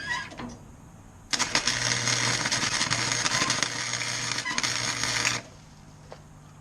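Harbor Freight welder's arc crackling and sputtering during a tack weld on steel for about four seconds, starting a little over a second in, over the welder's steady hum. A short high-pitched squeal comes at the very start.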